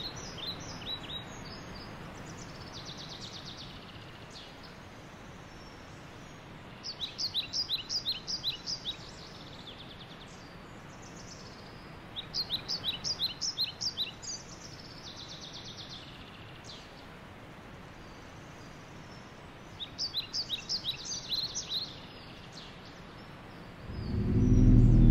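Birds calling in quick bursts of high chirps, three main bursts several seconds apart, over a steady background hiss. Near the end a loud deep tone swells in.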